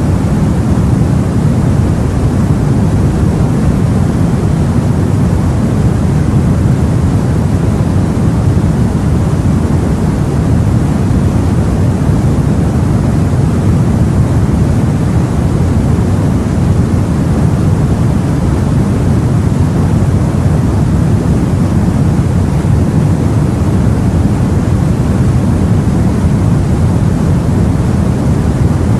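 Steady, deep rushing noise of the sea and wind, with no separate wave breaks standing out.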